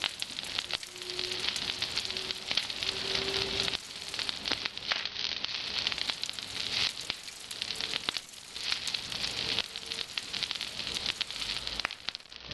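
Bonfire of pruned actinidia (kiwi vine) cuttings burning, a steady hissing crackle full of small sharp pops. A faint thin whistle comes and goes within it.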